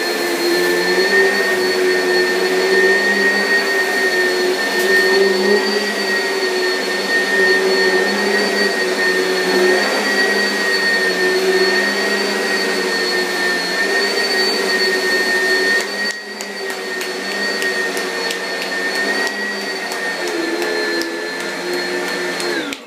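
Oreck upright vacuum cleaner running steadily with a high motor whine over its hum, then switched off at the very end, its whine sliding down.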